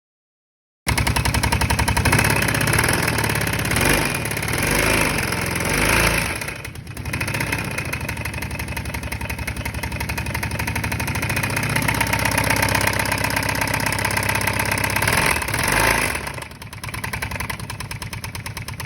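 Kawasaki Brute Force 650 ATV's V-twin engine running, revved up three times, about four, six and sixteen seconds in. The owner suspects the knock it has is a bent rod or blown rod bearing from water in the engine.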